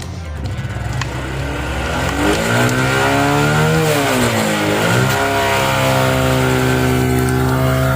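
Motorcycle engine revving: it climbs in pitch, drops back briefly, then revs up again and holds a steady higher speed.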